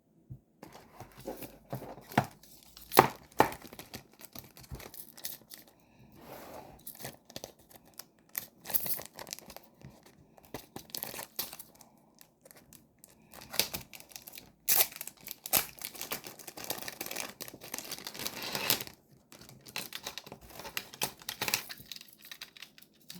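Packaging being torn open and crinkled by hand in irregular bursts, with sharp rips and rustling, the loudest rip about three seconds in.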